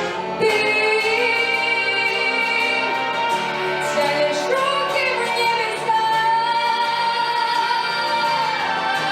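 A female vocalist singing a song with musical accompaniment, holding one long note for a few seconds near the end.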